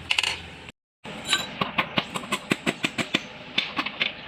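Quick run of sharp metallic taps and clinks, about four or five a second, from metal tools working on engine parts. The sound cuts out completely for a moment just before the taps start.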